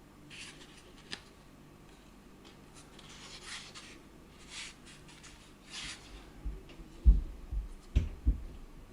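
Handling noise from a portable Bluetooth speaker being turned over in the hands: soft rubbing and scraping, then several low thumps about seven to eight seconds in.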